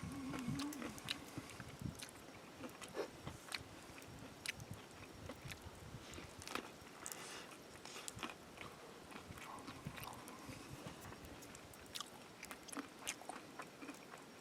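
A person eating: irregular biting and chewing with small crunches.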